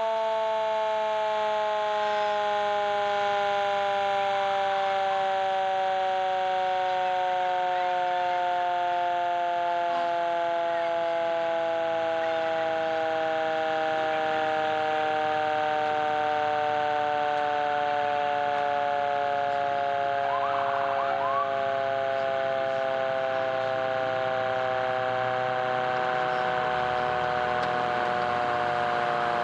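A fire truck's mechanical siren winding down: a loud, steady chord of tones whose pitch falls slowly and evenly throughout, with no rise and fall of a wail.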